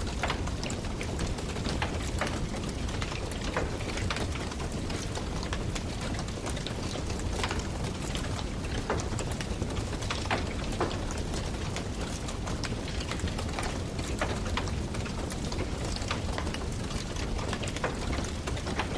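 Log fire crackling in a fireplace: a steady low rush of burning with irregular sharp pops and snaps.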